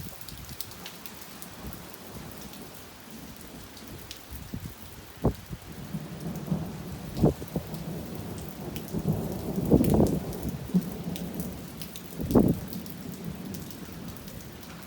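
Rain falling steadily, with the ticks of drops, while close thunder cracks and rumbles several times, the loudest about ten seconds in; the thunder follows the lightning almost instantly, a sign the strikes are near.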